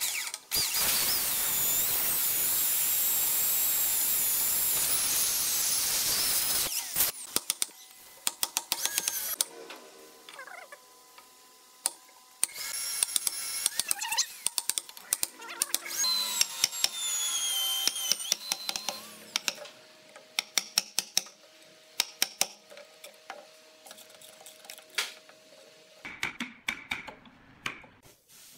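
Electric drill with a Forstner bit boring overlapping holes into an ebony beam to rough out a mortise, running steadily for about six seconds and again for several seconds midway. In between and afterwards come many sharp knocks and scrapes from a chisel clearing the waste from the holes.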